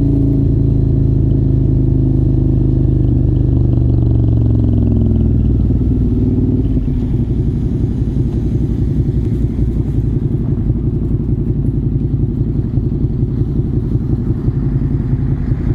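Motorcycle engine through an aftermarket exhaust, running steadily at first, then dropping in pitch as it slows about five seconds in and settling into a lumpy, pulsing idle.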